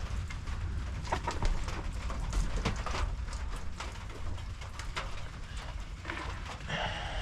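Hens in a chicken coop murmuring and clucking in short, low calls, one clearer call near the end. A steady patter of small taps and a low rumble run underneath.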